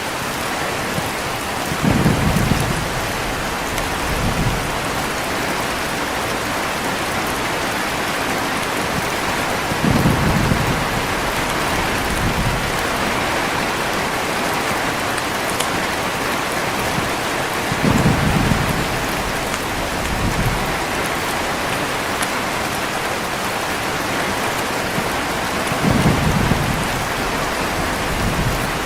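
Steady heavy rain with thunder rumbling low about every eight seconds, each rumble followed by a smaller one about two seconds later.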